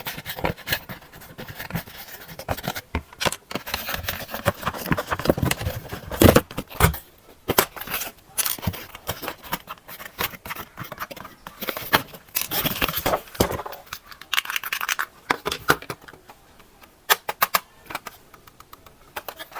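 Handling noise: irregular crackling, scraping and many short clicks, as of packaging and plastic parts being handled, with brief pauses now and then.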